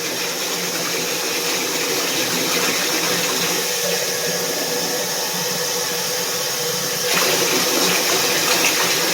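Steady rush of running water during a dog's bath, getting louder and brighter about seven seconds in.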